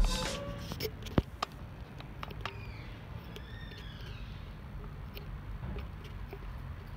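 Music cuts off at the start, leaving quiet background noise with scattered light clicks and a few short, gliding bird calls about two to three seconds in.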